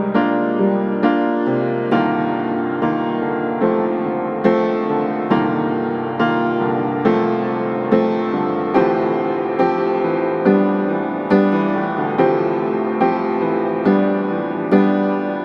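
Slow, gentle piano music, with notes and chords struck about once every second and left to ring.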